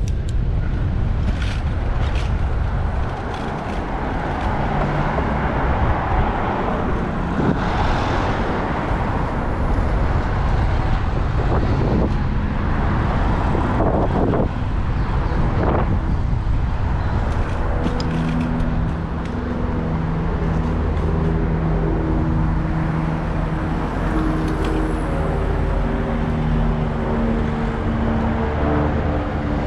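City traffic heard from a bicycle on the move, with wind rumble on the microphone. From about halfway through, a nearby vehicle engine's steady low hum joins in.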